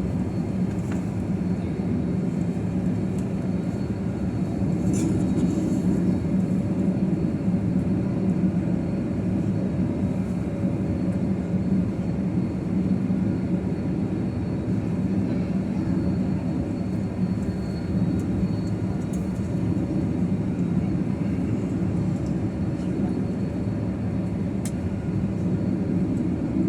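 Steady low rumble inside an airliner's cabin as the jet taxis on the ground after landing, engines at idle, with a few faint clicks.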